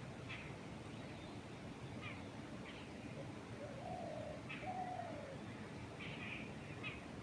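Wind moving through trees as a steady rushing, with birds calling over it: short, high, falling chirps every second or two, and two longer, lower calls about four seconds in.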